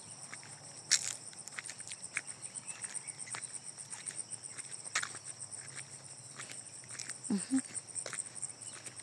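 Steady high-pitched insect chorus with a fast pulsing trill, crickets or similar, over irregular clicks and crunches of footsteps on a path.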